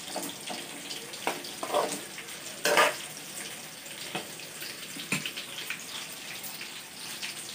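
Small whole bitter gourds deep-frying in hot oil: a steady sizzle with a few louder crackles, the strongest about three seconds in.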